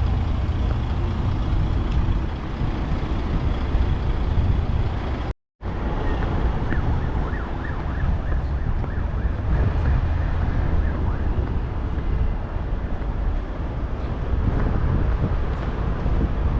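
City street traffic with heavy low rumble, likely partly wind on the microphone. About a third of the way in the sound cuts out for a moment. After that, a run of short, high, evenly spaced beeps comes through for several seconds.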